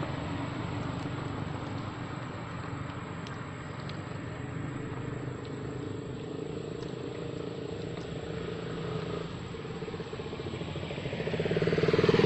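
A motor vehicle engine running with a steady hum, growing louder near the end as it comes closer.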